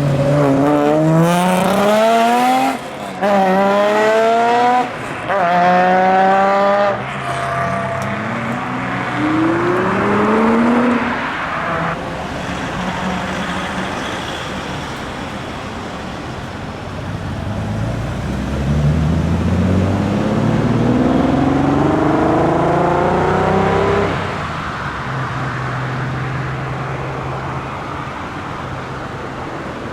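Classic Showa-era Japanese cars accelerating hard. In the first seven seconds one engine climbs in pitch three times, dropping briefly between each as it shifts up through the gears. Another car accelerates around ten seconds in, and a third, longer acceleration comes about two-thirds of the way through. A steady idle runs under and after them.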